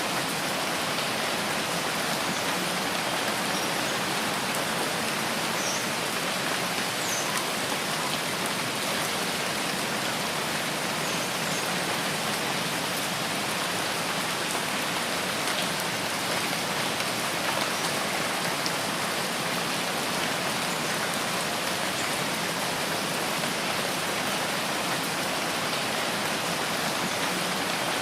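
Steady rain falling in a forest, an even hiss of many drops with a few faint, sharp drips.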